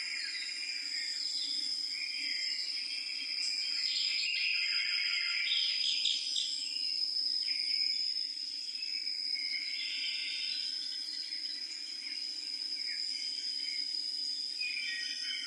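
Insect chorus: one steady high trill runs throughout, with shifting chirping calls around it that are busiest in the middle.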